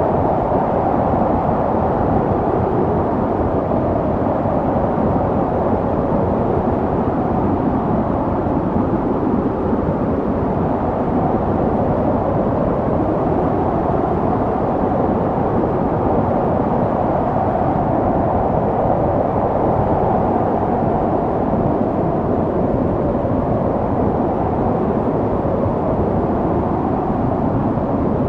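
Snowstorm wind blowing steadily: a deep rushing noise with a faint whistling band that slowly wavers up and down in pitch.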